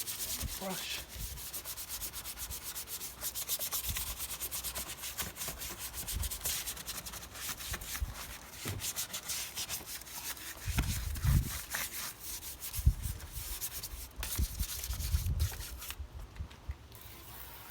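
Stiff detailing brush scrubbing grimy engine-bay parts with quick back-and-forth strokes, agitating traffic film remover into the grease. A few dull knocks come in the middle, and the scrubbing pauses briefly near the end.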